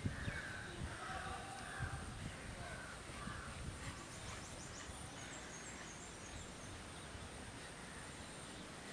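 Faint birds calling: several calls in the first few seconds, then a quick series of high chirps around the middle.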